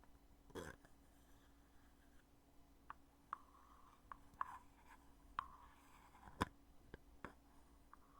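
Lid of a foundation makeup container being opened and closed: a series of small, sharp clicks and taps at irregular intervals, the loudest a little over six seconds in.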